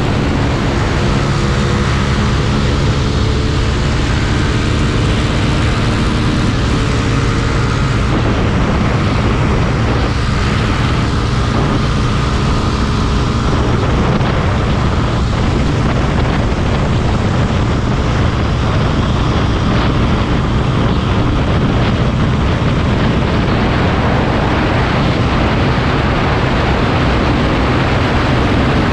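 Motorcycle engine running steadily under a constant rush of noise. A steady engine tone is clearest in the first eight seconds, then sinks into the noise.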